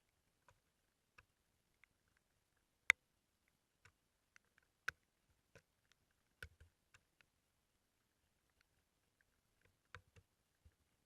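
Sparse, irregular light taps and clicks, the loudest about three seconds in and another about two seconds later.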